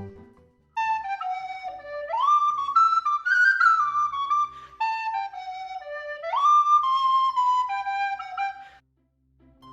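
A solo flute-like wind instrument plays a short melody in two matching phrases. Each phrase swoops up in pitch partway through and then steps back down.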